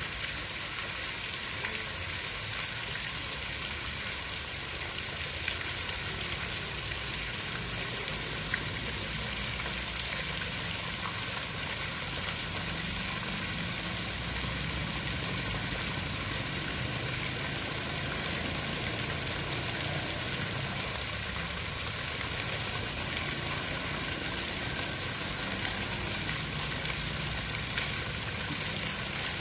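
Steady, even hiss of water, with no change in level.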